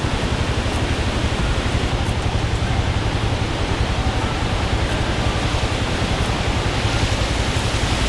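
Steady, loud roar of a small waterfall's rushing, falling water.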